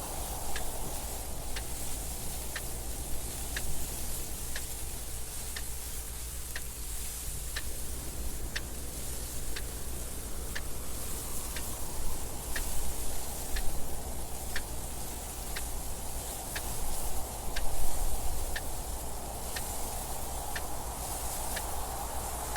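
Clock ticking evenly about once a second over a steady hiss and rumble of wind noise that swells briefly a few times.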